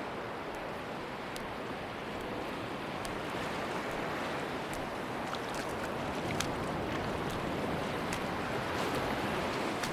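Ocean surf washing on a beach, a steady rushing wash that slowly builds in loudness, with scattered faint small clicks.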